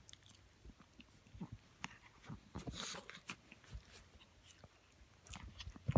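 Small senior dog snoring, one snore about halfway through, with faint clicks and knocks around it.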